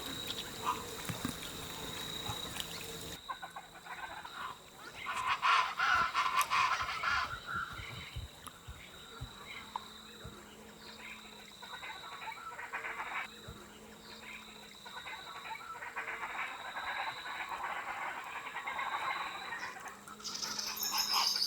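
Outdoor wetland ambience with a mix of animal calls, frogs and birds, coming in irregular clusters. The background hiss drops off sharply about three seconds in.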